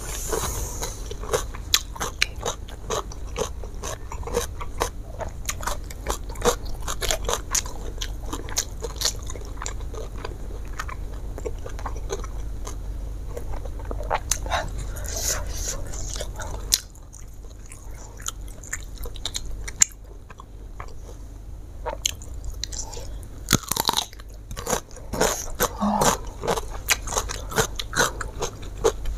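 A person chewing and crunching food in the mouth, with many quick crisp clicks; it goes quieter for a few seconds past the middle, then picks up again with a few louder crunches near the end.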